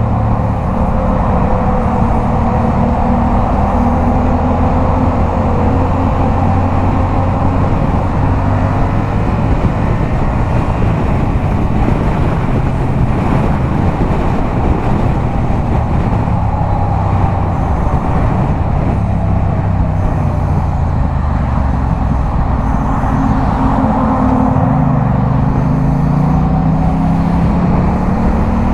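Yamaha MT-07 parallel-twin engine through a LeoVince aftermarket exhaust, ridden at a steady highway cruise over a constant rush of wind and road noise. Near the end the engine note dips and then climbs steadily as the bike accelerates.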